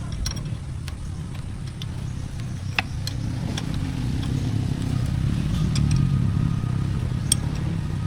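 An engine running with a steady low rumble that swells a little past the middle, with a few light clicks over it.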